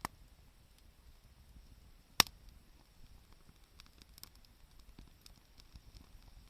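Wood campfire crackling: a sharp pop just after the start and a louder one about two seconds in, then scattered faint small crackles.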